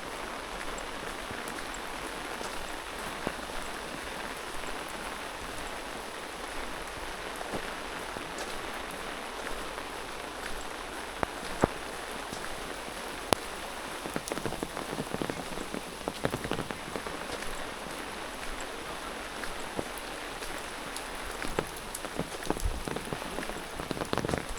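Steady rain falling, with scattered drops ticking and tapping, the taps coming more often in the second half.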